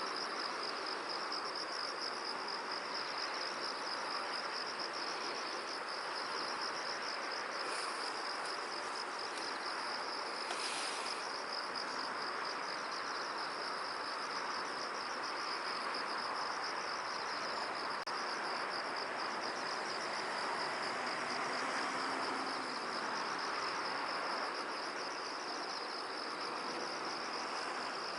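Insects trilling in a steady, rapidly pulsing high chorus, over a soft, even rush of wind through the field.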